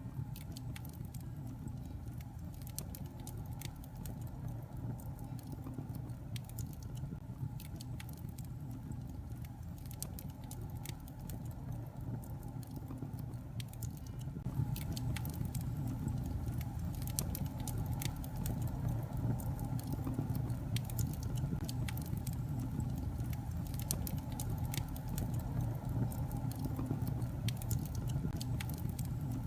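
Wood fire burning in a fireplace: a steady low rumble of flame with many scattered small crackles and pops. It grows a little louder about halfway through.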